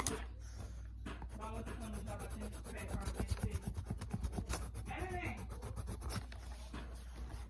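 Pencil scratching on paper in rapid back-and-forth strokes, colouring in a drawing, with faint voices in the background.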